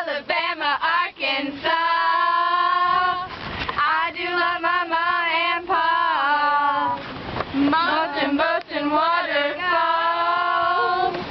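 Young female voices singing a song, with long held notes and slides between them.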